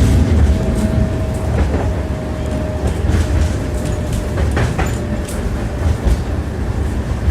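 Tram wheels clattering over the rail joints, heard from inside the car: a steady low rumble with irregular ringing knocks. A faint steady whine fades out about three seconds in.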